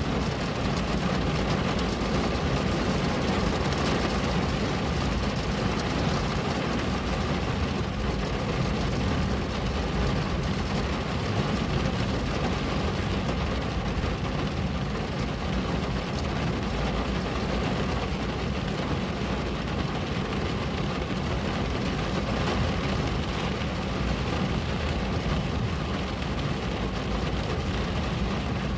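Steady rain on a window: an even, constant hiss over a low, unbroken rumble.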